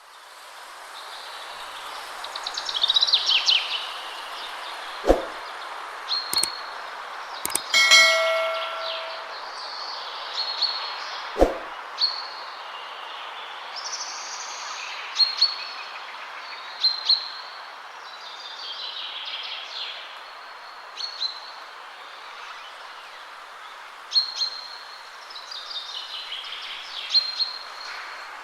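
Steady wind through trees, with songbirds singing and calling repeatedly throughout. A few sharp knocks come in the first half, the loudest about eight seconds in with a brief ringing tone.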